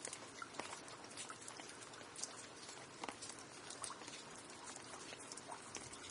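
Rain falling steadily: a soft even hiss with many irregular drip and patter ticks of drops striking a surface.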